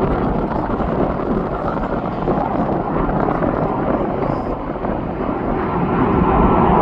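Jet airliner engines running, a steady rushing noise that grows louder about six seconds in, when a high whine joins it.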